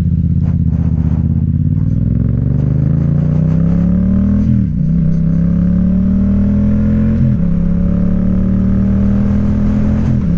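Motorcycle engine accelerating under way, its pitch climbing, then briefly dropping and picking up again three times as the rider shifts up through the gears.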